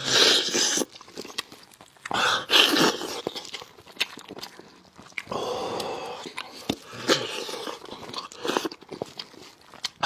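Close-up eating of braised fish head: loud sucking and slurping of the meat twice in the first few seconds, then chewing with many small wet clicks and smacks.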